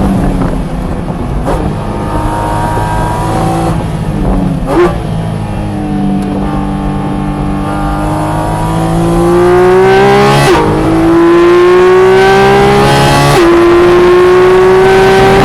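Porsche GT4 RS's naturally aspirated 4.0-litre flat-six driven hard on track. The engine note falls as the car slows, with two downshifts, the second with a short rev blip. It then climbs through the gears under full throttle, with quick upshifts about ten and thirteen seconds in, each cutting the pitch sharply before it rises again.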